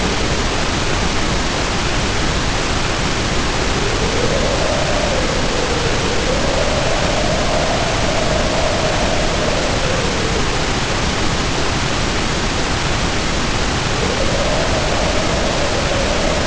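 Storm sound of heavy rain pouring as a steady hiss, with wind howling over it. The howl rises and falls in pitch in slow gusts lasting a few seconds each.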